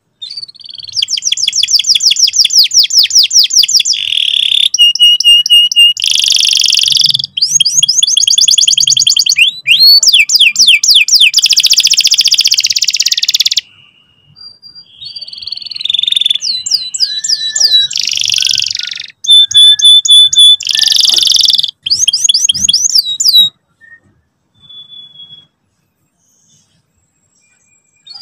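Canary singing a loud song of rapid rolling trills and fast repeated notes, in phrases with brief pauses between them. The song stops a few seconds before the end.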